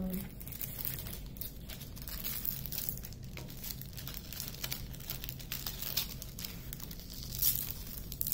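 Crinkling and rustling of a diamond painting canvas and its plastic cover film being handled and smoothed flat: a continuous run of irregular crackles, with a louder one near the end.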